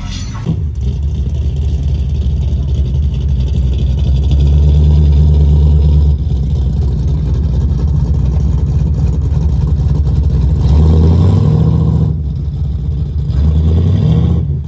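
A car engine running with a deep exhaust, its revs rising and falling several times.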